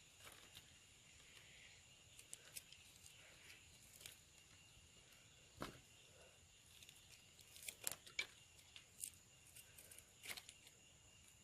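Near silence: faint room tone with a faint steady high whine and scattered light clicks and taps, a few sharper ones clustered around the middle and two-thirds of the way through.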